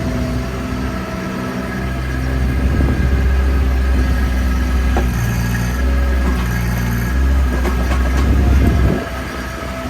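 Bobcat MT100 mini skid steer's engine running while working the hydraulics of an Eterra E40 backhoe attachment. It gets louder from about three seconds in, with a few short clanks, and eases off about nine seconds in.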